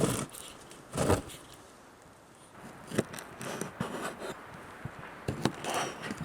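Irregular scrapes and knocks of objects being handled, the loudest at the start and about a second in, with more near the end.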